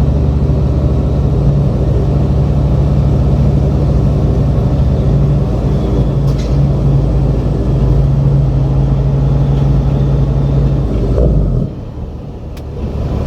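Semi-truck's diesel engine running steadily with a low hum. It drops off sharply about eleven and a half seconds in and picks back up near the end.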